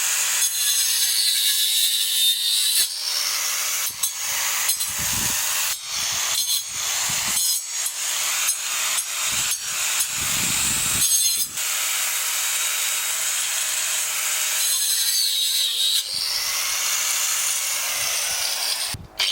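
Angle grinder fitted with a wood-cutting disc, running and cutting through tree branches. Its high whine dips in pitch as it bites into the wood and recovers between cuts, with several brief breaks.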